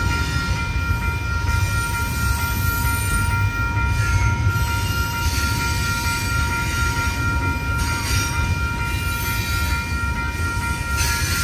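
Double-stack intermodal freight cars rolling through a grade crossing with a steady low rumble and brief washes of high wheel noise about 4, 8 and 11 seconds in. Over it the crossing's newly replaced electronic bell keeps ringing steadily.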